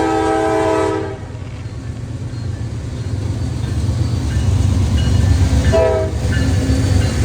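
Locomotive horn sounding a chord: a long blast that ends about a second in, then a short blast near the end, over the low rumble of a train that grows louder as it approaches.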